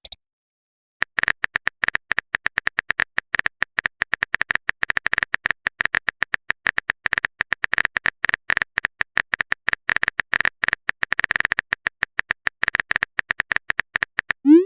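Rapid, irregular taps of a phone keyboard typing sound effect, as a text message is typed out. A short rising tone comes just before the end.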